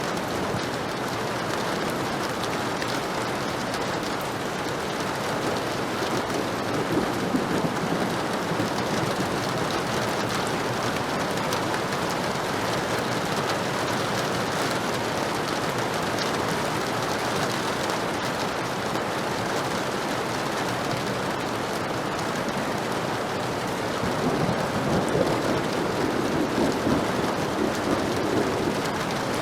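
Heavy rain falling steadily, a dense even hiss, with rolls of thunder rumbling low underneath, once about seven seconds in and again building near the end.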